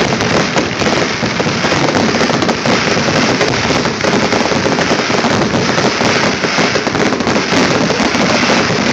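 Fireworks barrage: many shells launching and bursting at once, a dense, unbroken stream of bangs and crackling.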